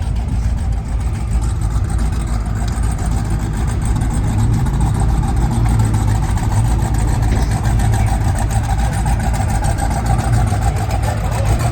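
Twin-turbo LS V8 engine of a limousine running steadily, a constant low drone with no revving.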